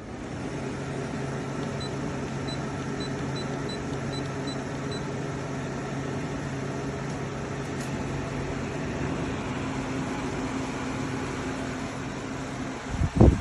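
KGOGO portable air conditioner running: a steady low hum with rushing air noise, loud enough to be called far too loud for a room. A loud knock comes near the end.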